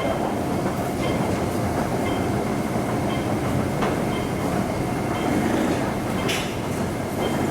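MTR West Rail Line IKK-train electric train running along the platform: a steady rumble with a thin, even whine, and a couple of wheel clacks about four and six seconds in.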